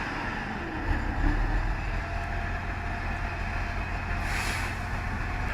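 Heavy truck engine running with a steady low rumble, and a brief hiss about four seconds in.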